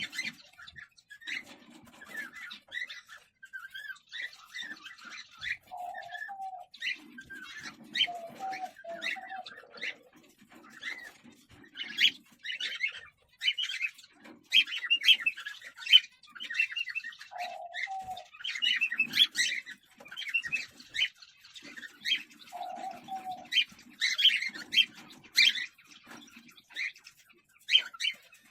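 Cockatiels chirping in quick runs of short, high calls, with a few brief lower calls in between.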